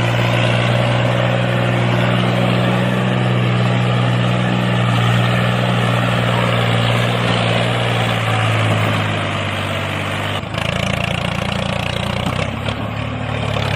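A motor running steadily with a low hum; about ten and a half seconds in, the sound changes abruptly to a rougher, rattling run.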